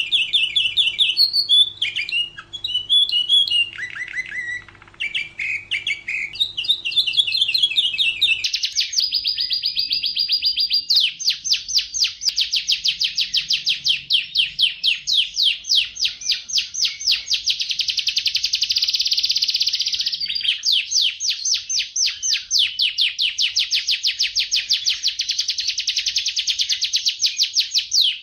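Domestic canary singing: varied short phrases of chirps and whistles, then, from about eight seconds in, long, very fast trilled rolls held for several seconds at a time, with a brief break about two-thirds of the way through.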